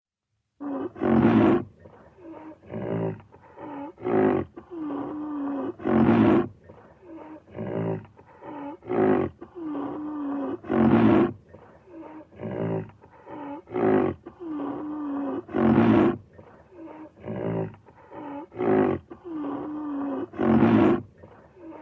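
Rhinoceros vocalising: rough, growling grunts and bellows in a short sequence that repeats about every five seconds.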